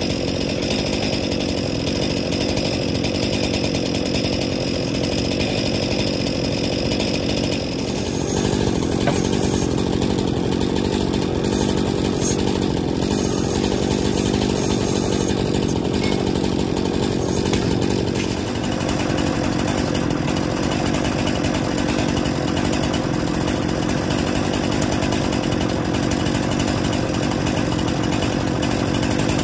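Chainsaw engine running steadily, its note changing for about ten seconds in the middle and then settling back.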